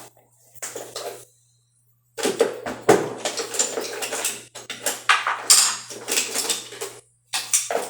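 Hard objects clinking and clattering against each other in quick irregular runs, with a faint steady hum underneath.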